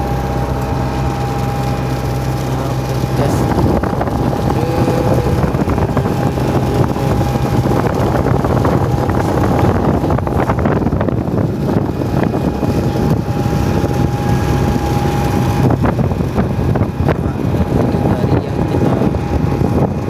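Tour boat's engine running steadily under way, with a constant low hum and the rush of wind and water, wind buffeting the microphone.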